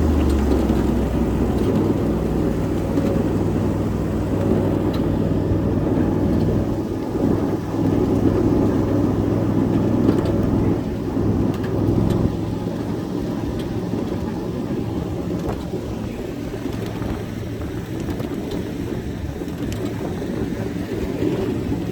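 7.5-inch gauge ride-on miniature train running along its track: a steady rumble with a low drone and a few faint clicks from the wheels on the rail.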